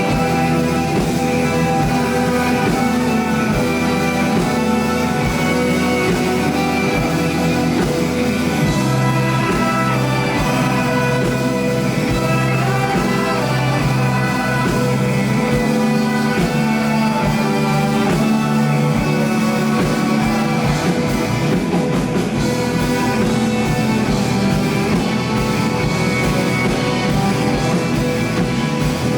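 Live rock band playing an instrumental passage, with guitars over a steady low drum beat.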